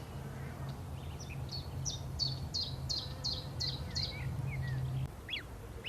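A songbird singing a rapid series of about eight short, high, repeated notes, with a few scattered chirps after it, over a low steady hum that stops about five seconds in.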